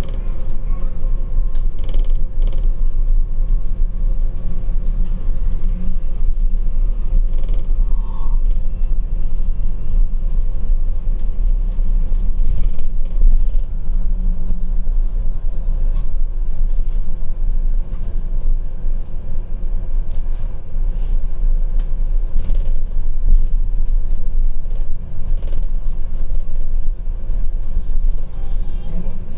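Steady low rumble of a moving bus heard from inside, engine and road noise running evenly, with a few faint clicks.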